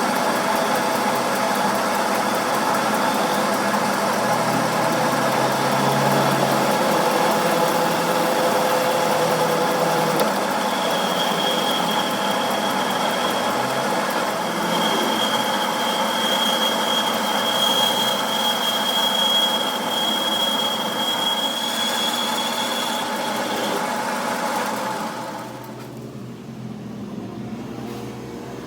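A machine running steadily with several steady tones and a high whine that comes in about a third of the way through. It drops away sharply near the end.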